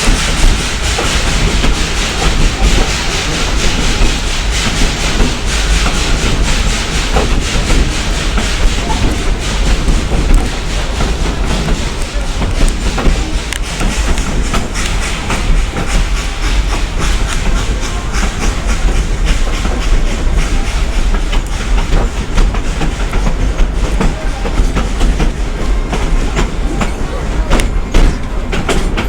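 Passenger car of a steam excursion train rolling along, with a steady rumble and the wheels clattering over rail joints.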